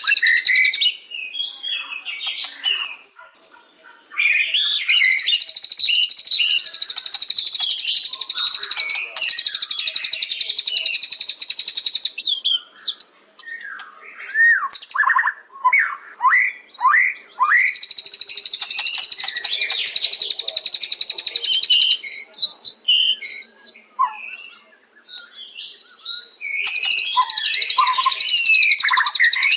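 White-rumped shama (murai batu) singing. Long runs of rapid, high-pitched trilled chatter alternate with a run of separate, lower, down-slurred whistled notes about halfway through. The chatter returns after the whistles and again near the end.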